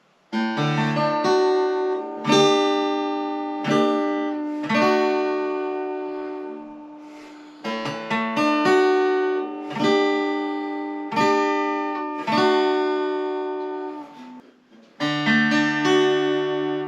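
Acoustic guitar music: chords strummed roughly every second or so, each ringing out and fading before the next.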